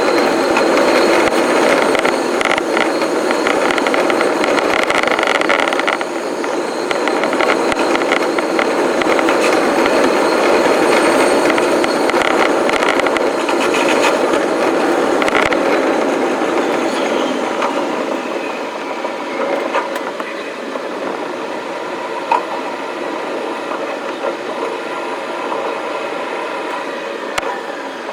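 Shonan-Shinjuku Line electric commuter train running on the rails, heard on board as steady rolling noise. In the second half a faint motor whine falls in pitch and the noise eases off as the train slows.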